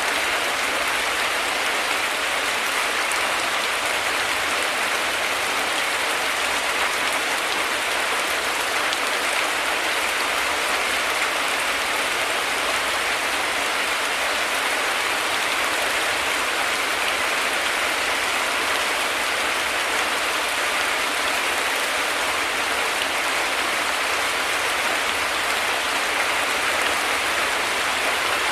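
Heavy rain falling steadily: an even, unbroken hiss of rainfall with no thunder.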